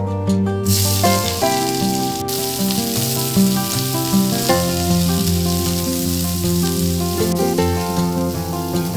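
Food sizzling in hot fat, starting suddenly about a second in, over background music.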